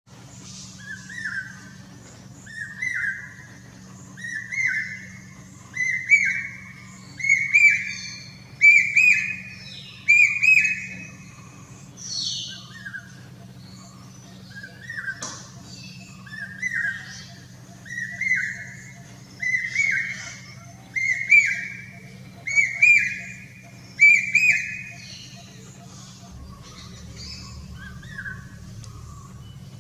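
A cuckoo calling: a whistled note repeated about every second and a half, each one higher and louder than the last, climbing in two series of about seven notes. A single higher, different call comes between the two series, and two faint notes follow near the end.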